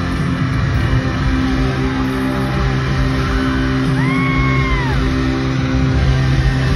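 Live band playing rock-pop music in an arena, loud and steady, with crowd shouts mixed in. About four seconds in, a high held note slides up, holds for a moment, then falls away.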